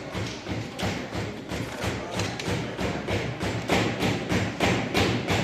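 Hammers knocking nails into the wooden pieces of a children's kit, with many quick, irregular, overlapping blows.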